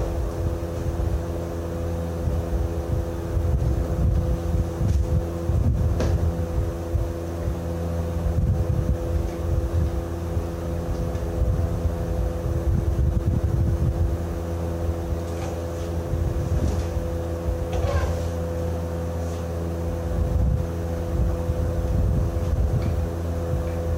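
An engine running steadily, a low rumble with a constant hum, with wind buffeting the microphone. A few faint ticks come through about six seconds in and again near eighteen seconds.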